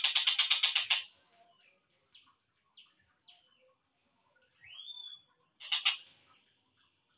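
Tengkek buto (stork-billed kingfisher) song recording, slowed down: a fast rattling call, then scattered short chirps, a single rising whistle that levels off, and a second brief rattle near the end.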